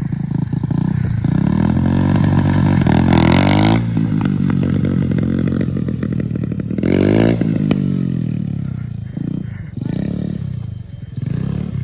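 Motorcycle engine revving hard for a wheelie, pitch climbing for about four seconds before dropping sharply. It surges again about seven seconds in, then eases off into lower, uneven running.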